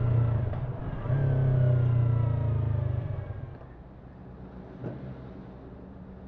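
Parallel-twin engine of a Yamaha YZF-R3 motorcycle under way: the engine note dips about half a second in, picks up again at about a second, then fades out after about three seconds. A quieter steady low hum follows, with one short click near five seconds.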